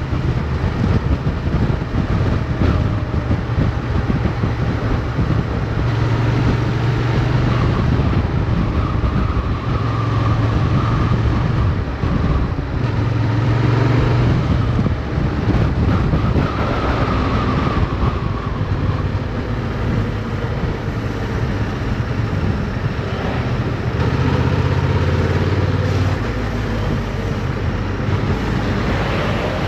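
Motorcycle engine running under way, its note rising and falling with the throttle through the bends, with wind noise rushing over the microphone.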